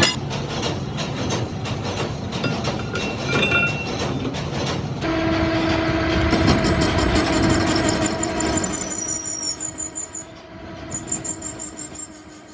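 Heavy metalworking machinery running: rapid metallic clatter and knocks, then a steady whine that holds for a few seconds from about five seconds in.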